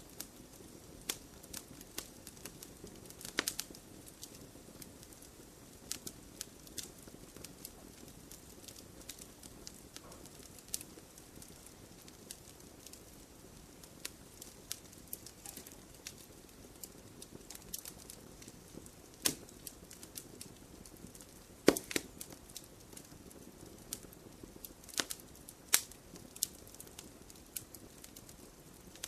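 Campfire burning in a stone fire pit: a low steady hiss of flame with frequent sharp crackles and pops of burning wood, a few louder snaps among them, the loudest about 22 seconds in.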